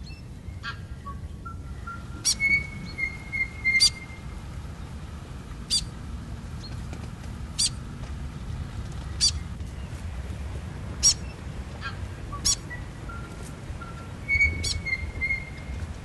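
A bird calling repeatedly: sharp clicking notes about every one to two seconds, some joined by short held whistles, over a steady low rumble.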